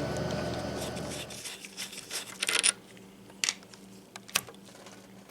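A steady background hum stops abruptly about a second and a half in. After it come a few sharp clicks and scrapes as small oil-burner filter parts are handled and fitted.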